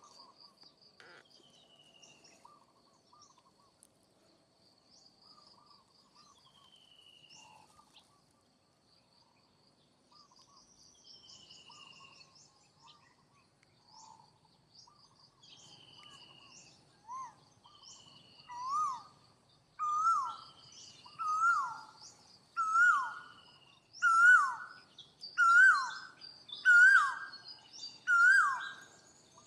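Birds calling in the forest: faint chirps and short descending whistles over a steady high thin tone. From about two-thirds of the way in, a loud whistled call repeats about every second and a half, each call rising and then falling, and grows louder.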